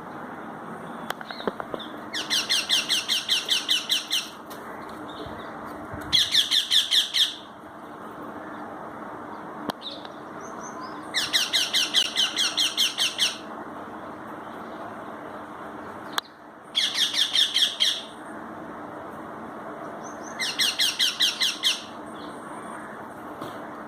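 Young parrots calling in five bursts of rapid, repeated squawks, about six or seven calls a second, each burst lasting a second or two, with a steady background noise throughout.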